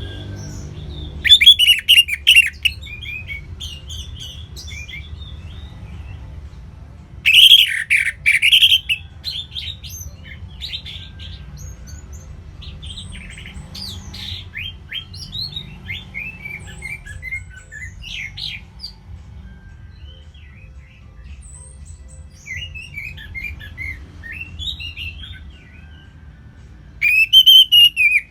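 Songbirds chirping and singing: many short, quick chirps and phrases, with three loud bursts of song about a second in, about seven seconds in and near the end, over a low steady hum. It is a mix of songbird lure calls played to get an orange-headed thrush singing.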